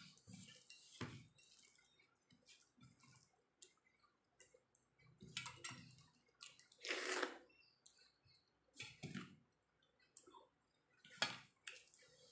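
A person chewing and eating rice with jackfruit curry: wet mouth smacks and soft clicks at irregular intervals, with a louder smack about seven seconds in.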